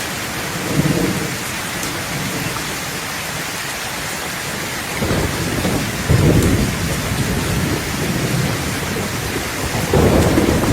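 Steady rain falling, with low rumbles of thunder swelling up about halfway through and again near the end.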